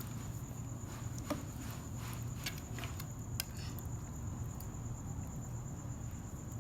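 Crickets trilling steadily and high-pitched, with scattered light clicks and a low steady rumble underneath.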